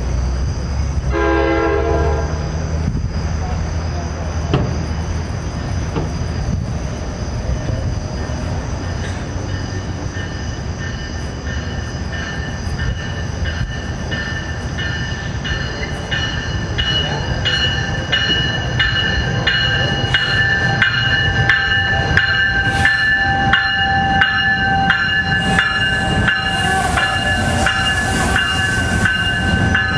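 New Jersey Transit commuter train sounding one horn blast about a second in, then rumbling closer and passing with its Multilevel coaches' wheels clicking over rail joints. A steady high squeal joins in about halfway through and grows louder as the train rolls by.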